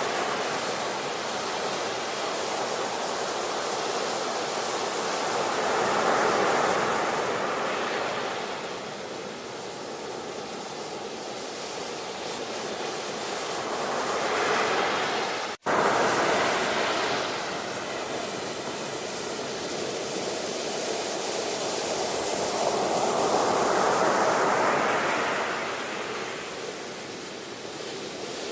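Ocean surf: waves breaking and washing in, swelling and ebbing in slow surges roughly every eight to ten seconds. About halfway through the sound cuts out for a split second.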